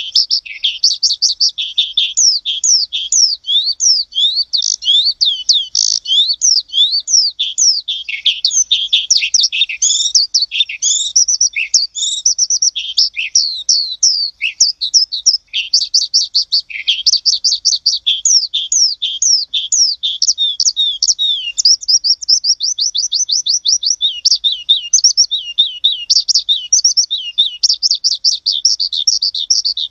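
Birds chirping and singing without a break: a dense run of quick high chirps and trills, with a fast even trill about 22 seconds in.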